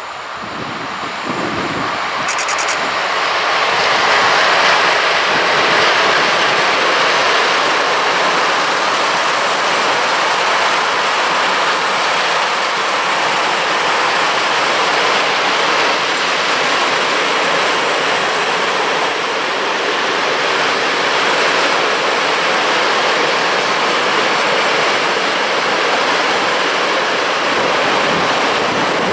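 Freight train rolling past on the track: a steady rushing noise of wheels on rails that builds over the first few seconds and then holds.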